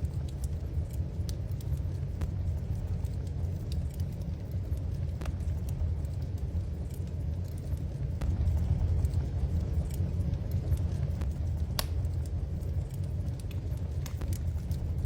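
Wood fire burning in a fireplace: a steady low rumble with scattered sharp crackles and pops, one louder pop about three quarters of the way through.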